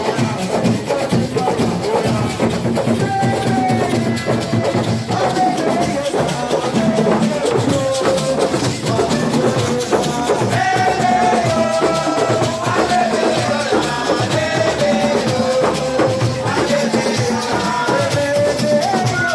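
Live band music: shakers and drums playing a dense, fast rhythm under a wavering melody line.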